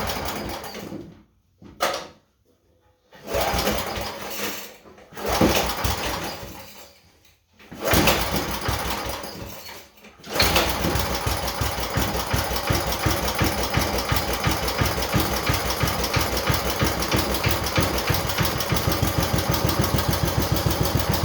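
Gilson Brothers snowblower's small gas engine running. The sound drops out to near silence several times in the first ten seconds, then it runs steadily with an even, rapid beat.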